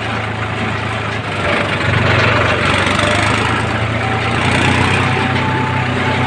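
Heavy diesel engine running steadily, growing somewhat louder about two seconds in.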